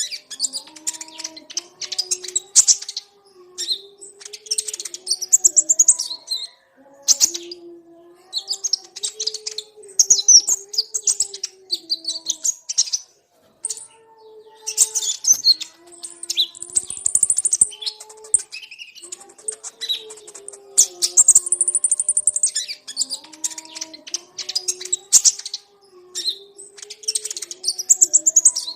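A flock of konin sunbirds chirping and trilling together in high, rapid, buzzy phrases that come every second or two. A lower, wavering, pitched sound runs quietly beneath the bird calls.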